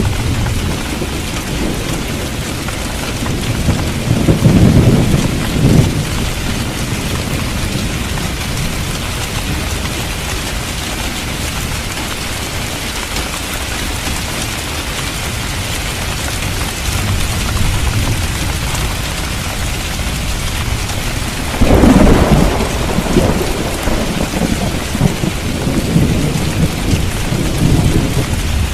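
Steady heavy rain falling on a street, with rolling thunder: one rumble about four seconds in, and a louder, sharper crack about 22 seconds in that keeps rumbling to the end.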